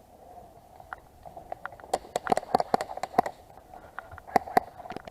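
A run of irregular sharp clicks and cracks, thickest about two seconds in and again near the end, over a faint steady hum.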